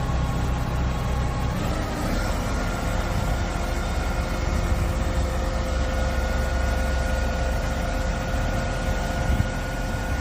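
Diesel engine of a Ford 4142P concrete pump truck idling steadily, a 420 hp Euro 6 unit. A steady higher tone comes in on top of the hum about two seconds in.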